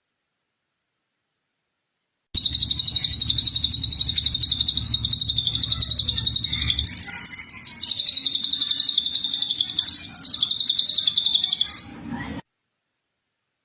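A songbird singing one long, very rapid, high trill for about nine seconds, starting a couple of seconds in. The trill rises slightly in pitch midway, settles again, and stops abruptly.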